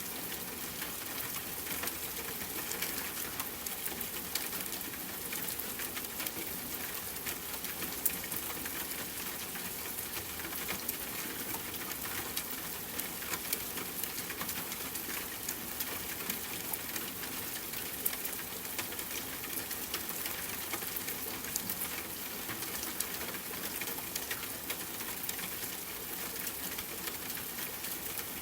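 Steady rain with a campfire crackling: an even hiss dotted with many short, sharp pops and ticks.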